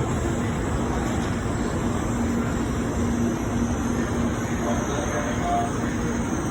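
Shinkansen Nozomi train noise: a steady rumble with a low, steady hum, and a brief higher tone about five and a half seconds in.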